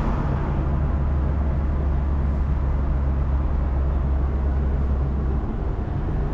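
Car on the move: a steady low rumble of engine and tyre noise, easing slightly about five seconds in.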